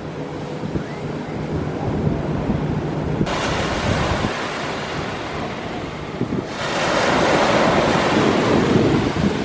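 Ocean surf washing in on a beach, with wind rumbling on the microphone; the sound changes abruptly twice and is loudest over the last third.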